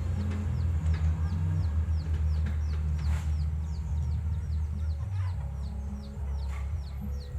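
Heavy-equipment diesel engine running with a low, steady rumble, with a regular series of short, high, falling chirps about three a second over it.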